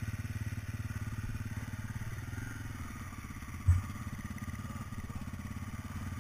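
Dirt bike engine idling with a steady, even pulse. A single loud thump about three and a half seconds in.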